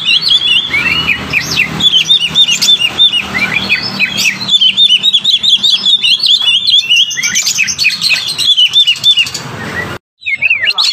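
White-rumped shama and oriental magpie-robin singing: a dense, rapid stream of chirps, trills and whistled notes, of the kind played as lure song to set other birds singing. The song cuts out suddenly near the end, then resumes.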